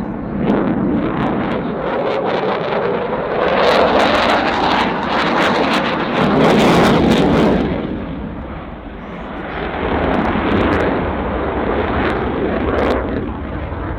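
Dassault Rafale C fighter's twin Snecma M88 turbofans on a display pass: loud jet noise that swells twice, about four and seven seconds in, crackling at its loudest, eases off around nine seconds, then builds again.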